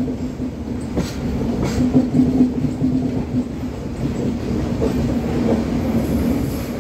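Indian Railways passenger train rolling along the track, heard from on board: a steady rumble of coach wheels on the rails with a constant hum, and a few clicks as the wheels cross rail joints.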